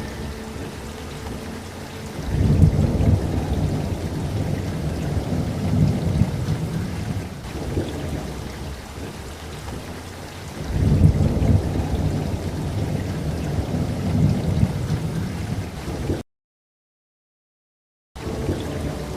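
Steady rain with two long low rolls of thunder, the first swelling up about two seconds in and the second around eleven seconds in. Near the end the sound cuts out completely for about two seconds, then the rain resumes.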